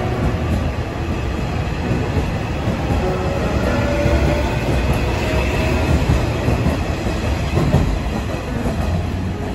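Nishitetsu electric train running past at close range, a loud steady rumble of wheels on the rails.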